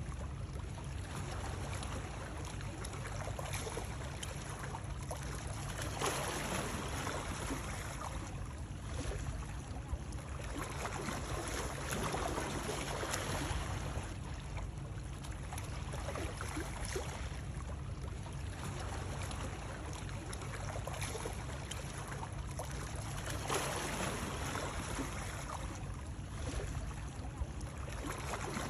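Continuous running water, a steady rushing noise over a low rumble that swells and eases every few seconds.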